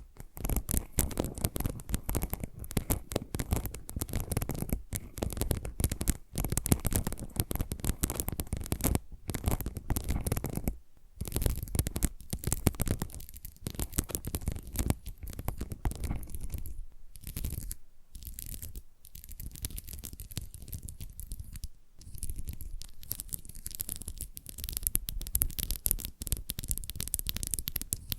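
Close-miked fingernail scratching and tapping, quick and continuous, with several trigger sounds layered over one another in the left and right channels.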